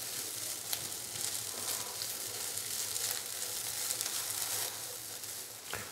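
Shredded boiled chicken sizzling lightly in a little oil in a nonstick frying pan over a medium-to-low flame, stirred with a silicone spatula, with a few faint ticks.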